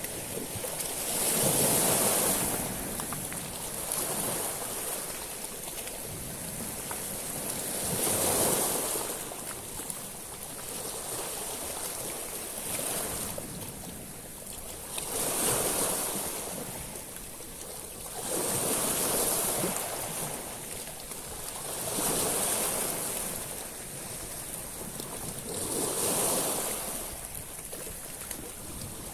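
Sea waves breaking and washing over a beach of small stones, a louder surge every few seconds, each with a hissing wash high in pitch, over a steady background of surf.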